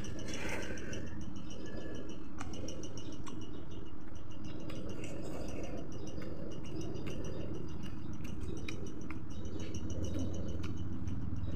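Mouth sounds of someone eating fried chicken: chewing with scattered crunchy clicks. A steady, high, pulsing chirp runs underneath.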